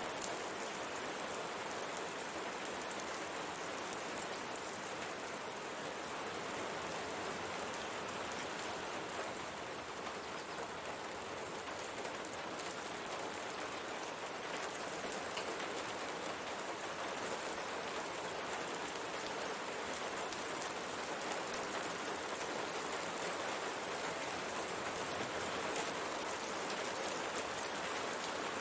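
Steady rain pattering on a window pane, a dense even hiss of drops with fine scattered ticks.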